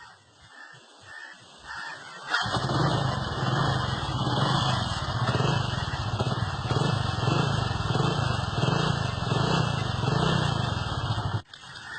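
Motorcycle engine running through a homemade racing exhaust made from a soda can, with a loud, low, slightly pulsing note. It starts suddenly about two seconds in and cuts off sharply near the end.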